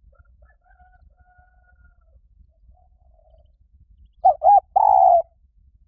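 Spotted dove cooing: faint coos at first, then near the end a loud close call of two short notes followed by one longer drawn-out coo.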